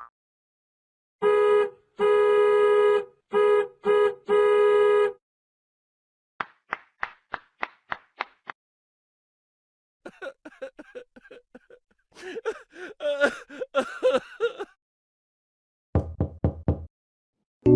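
A string of separate meme sound effects: five honks of a steady horn-like tone in a short rhythmic pattern, then a quick run of about nine knocks, then a jumble of clattering and pitched noises, and a few low thuds near the end.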